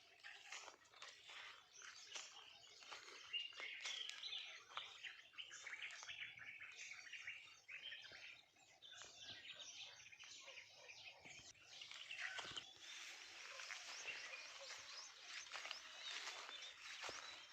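A chorus of many wild birds chirping and calling together, with a dense stream of short, high chirps that grows busier about two-thirds of the way through.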